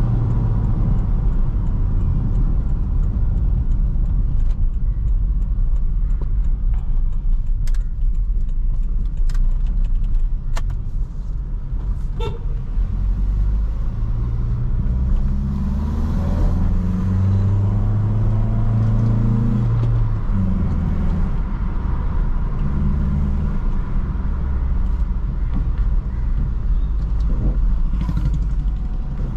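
2004 Toyota Corolla being driven, its engine running under steady road rumble. Around the middle the engine note rises and holds as the car accelerates through the gears, then drops away about twenty seconds in. A few sharp clicks come in the first half.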